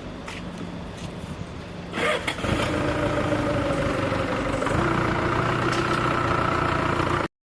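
A sawmill's engine starts about two seconds in and runs steadily, its pitch stepping once about two seconds later; the sound cuts off suddenly near the end.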